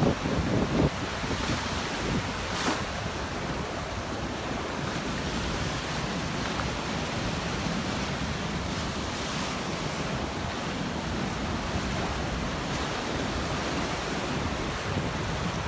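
Surf washing onto a sandy beach in a steady rush, with wind buffeting the microphone, in gusts near the start.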